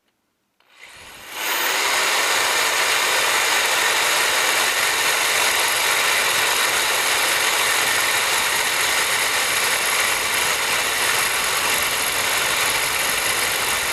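Power drill with a cobalt bit boring through the hard steel of a mud-motor tailpipe flange. The drill spins up about a second in, then runs steadily under load with a whining motor.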